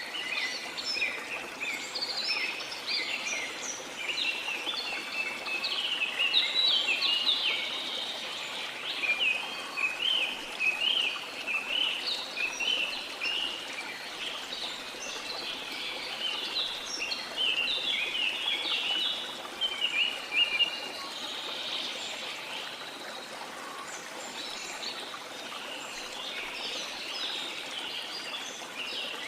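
Rain forest ambience: many birds chirping and calling in quick, overlapping bursts over a steady rush of flowing water. The calls thin out for a few seconds past the middle, then pick up again.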